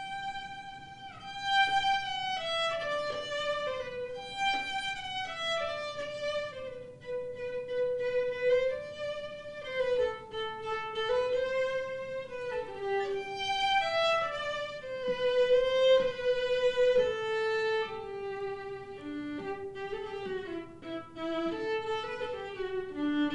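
Solo violin playing a melody one note at a time, the line drifting gradually lower in pitch across the passage.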